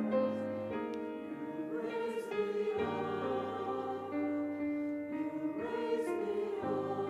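Slow sacred choral music: a choir singing held chords over a steady bass, with the chords changing every couple of seconds.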